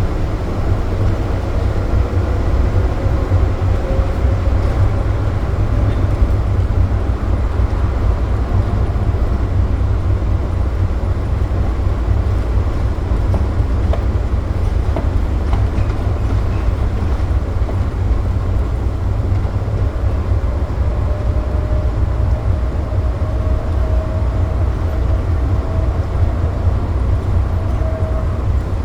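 SFO AirTrain people-mover car running along its guideway: a steady low rumble with a faint motor whine that climbs slightly in pitch near the end.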